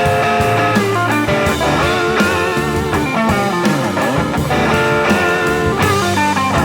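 Blues band playing an instrumental passage: an electric guitar solo with bent, wavering notes over bass and drums.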